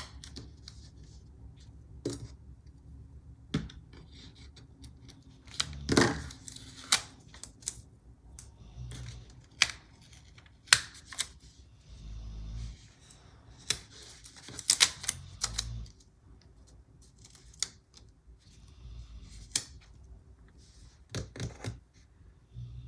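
Scattered clicks, taps and light rustles of paper stickers and sheets being handled on a desk, with a few sharper snaps and soft low thuds.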